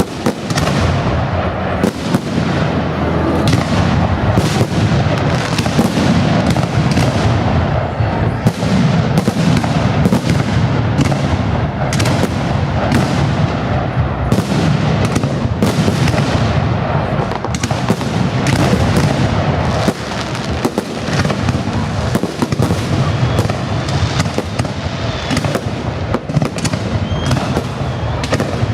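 Fireworks display: shells bursting in a rapid, near-continuous barrage of booms and crackles, several a second, over a constant low rumble.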